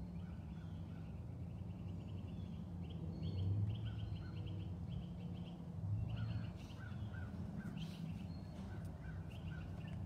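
A songbird singing phrases of quick repeated chirps over a steady low background rumble.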